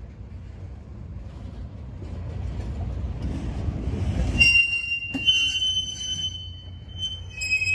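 Freight train cars, covered hoppers and gondolas, rolling past with a low rumble of steel wheels on rail that builds for the first half. From about halfway in, the wheels set up a high-pitched squeal that holds, with one sharp knock just after it starts and a fresh squeal near the end.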